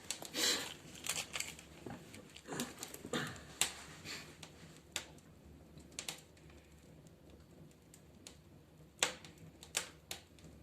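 Wood fire crackling in a fireplace stove: irregular sharp pops and clicks, several close together in the first few seconds, then sparser.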